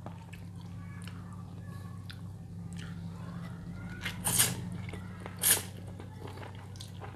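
A person eating a bowl of bakmie chicken noodles close to the microphone: soft chewing with small wet mouth clicks, and two short, louder mouth noises about four and five and a half seconds in, over a steady low hum.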